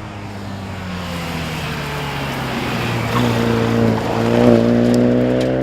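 Alfa Romeo 147 rally car engine under load, growing steadily louder and loudest about four and a half seconds in. Its engine note dips slightly, then climbs again near the end as it revs up.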